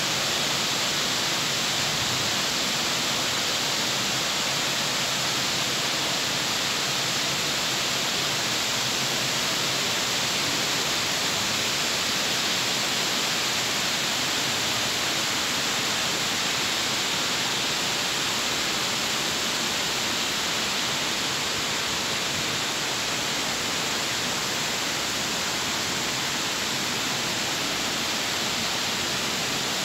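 Heavy rain pouring down, an even, steady hiss of falling water.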